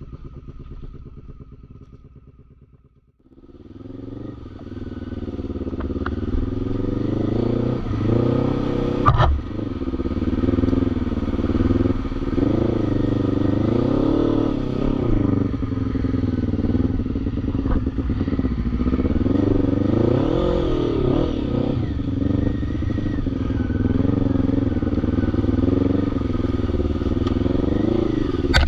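ATV engine running hard, its revs rising and falling over and over as it is ridden. A fainter engine sound dies away over the first three seconds before it comes in, and a sharp knock stands out about nine seconds in.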